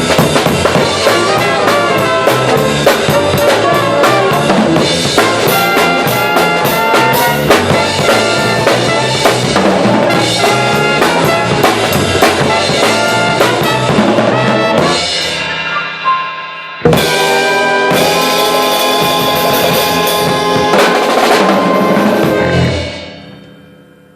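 Jazz big band playing with brass and drum kit. About fifteen seconds in the music thins out, then a sharp full-band hit leads into a held closing chord that dies away near the end.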